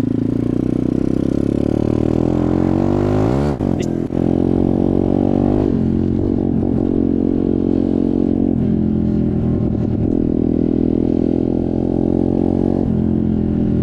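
Motorcycle engine under way, its pitch climbing for the first few seconds, dropping sharply about three and a half seconds in and climbing again, then running fairly steadily with small rises and falls.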